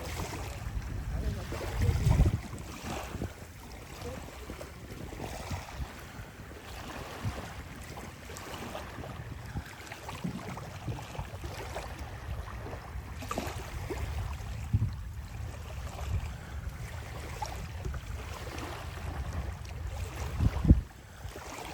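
Wind buffeting the microphone over the wash of sea waves on the shore, with louder gusts about two seconds in and again near the end.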